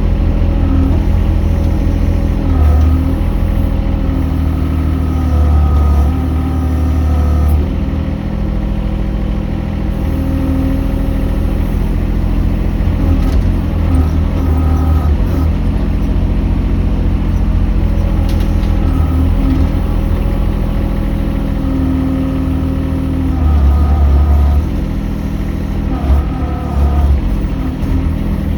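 Mini excavator engine running steadily, its pitch and load rising and falling every few seconds as the machine works.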